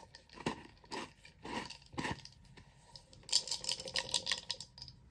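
Tiny handmade balls and chunky glitter rattling loose inside a small spice container as it is tried out by tilting and shaking. A few separate clicks come first, then a quick, dense rattle about three seconds in.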